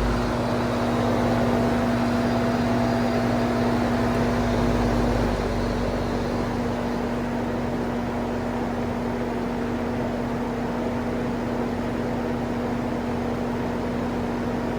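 Vintage Sears box fan running in exhaust (reverse) at medium speed: a steady rush of air from the blades over a steady electric motor hum. The owner suspects the motor windings or the speed switch are going bad.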